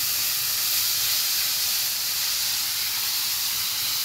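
Chopped onions and green chillies sizzling in hot oil in a stainless steel kadai as they are stirred and sautéed with a wooden spatula: a steady hiss.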